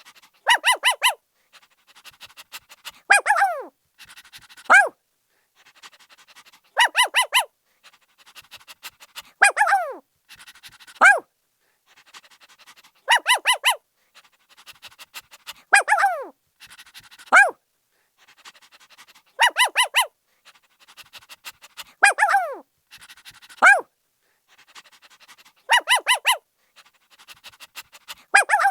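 Puppy barking in a repeating pattern, about every six seconds: a quick run of four high yaps, then single yelps that fall sharply in pitch, with fainter short sounds between them.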